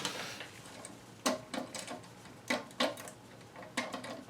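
A scatter of sharp clicks and light knocks, about six of them at uneven intervals, from hard objects being handled.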